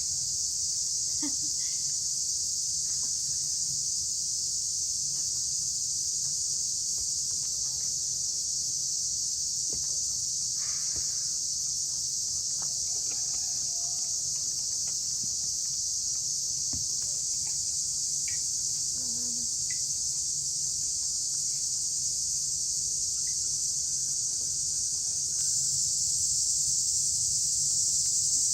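A steady, unbroken, high-pitched chorus of insects, growing a little louder a few seconds before the end, with a few faint clicks and knocks beneath it.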